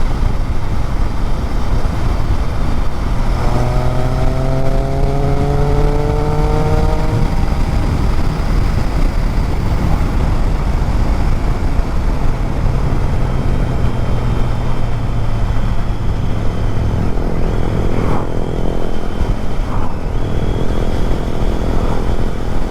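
Motorcycle riding at speed with heavy wind rush over the microphone. About three seconds in, the engine note climbs for several seconds as the bike accelerates, then settles into a steadier drone.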